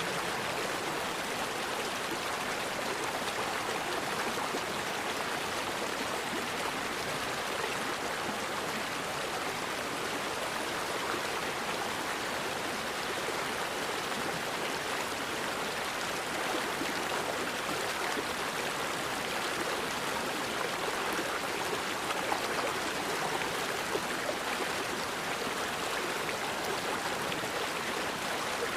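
Forest river flowing: a steady rush of water, with no windchimes or birds to be heard.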